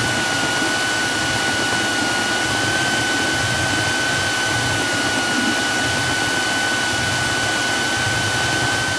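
Cessna 172 cabin noise: the engine and airflow make a steady droning hiss, with a thin, steady high whine over it.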